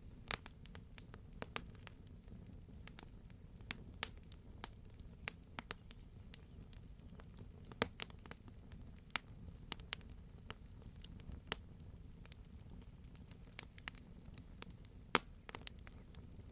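Campfire burning, wood crackling and snapping in sharp, irregular pops over a steady low rumble of the flames.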